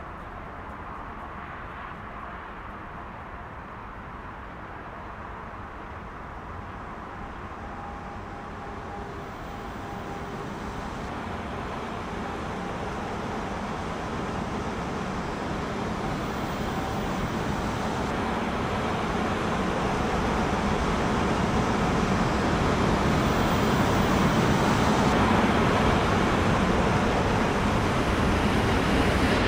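Rhaetian Railway Ge 6/6 II electric locomotive hauling a freight train on metre-gauge track, approaching and growing steadily louder as it draws near.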